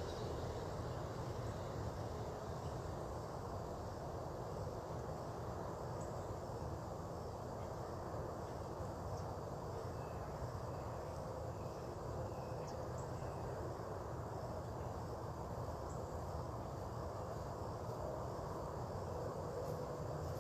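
Steady outdoor background of low rumble and hum, with a few faint short chirps about halfway through.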